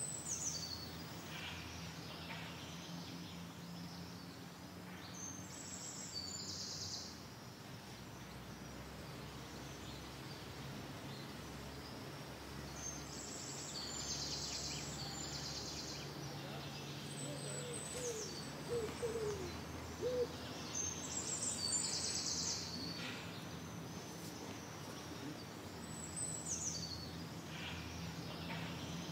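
Birds singing: a short high chirping phrase repeated every few seconds, with a few lower calls around the middle, over a steady low background hum.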